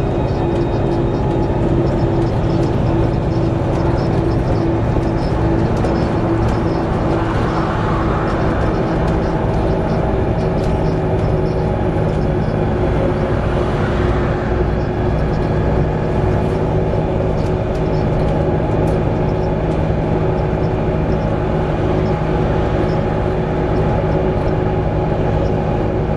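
Volvo B7TL double-decker bus under way, heard from inside: a steady engine and drivetrain drone with a continuous whine running through it. The uploader blames the whine on a bad, whistling differential.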